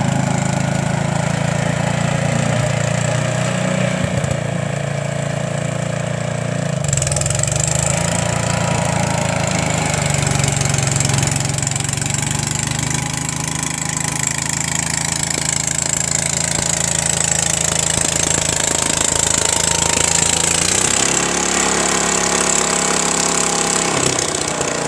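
Rapid S Super two-wheel tractor's engine running steadily under the snowblower. Its note shifts about seven seconds in, when a high steady hiss-like band joins, and changes again near the end.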